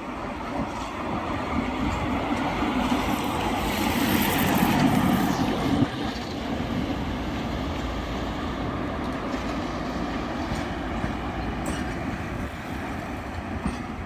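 Passenger train running past on the tracks: a steady rumble that swells to its loudest around four to six seconds in, then holds steady.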